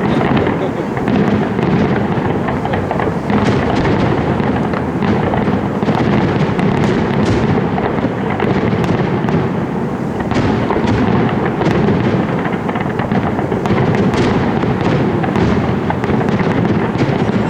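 Fireworks display in a dense barrage: many shells bursting in quick succession, their bangs and crackle overlapping into a continuous loud din with no break.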